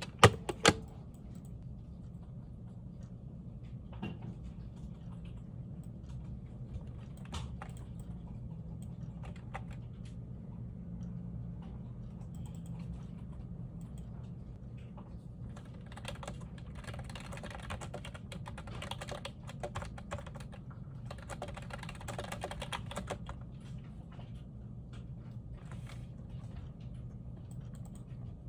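Typing on a computer keyboard, with two sharp loud clicks near the start, scattered keystrokes, then two dense runs of rapid typing about two-thirds of the way through. A steady low hum runs underneath.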